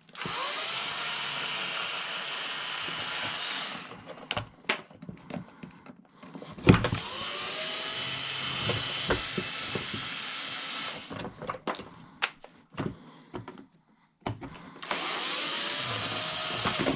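A handheld power tool working on cast aluminum scrap, run three times for a few seconds each, with sharp metal knocks and clatter in the pauses between runs.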